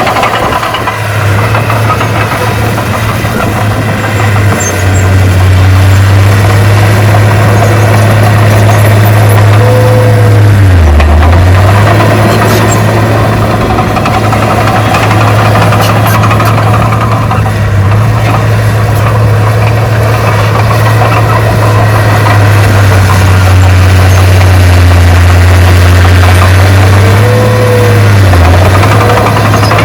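Heavy diesel engine of earthmoving equipment running loud and steady, its note dropping briefly twice, about a third of the way in and again near the end.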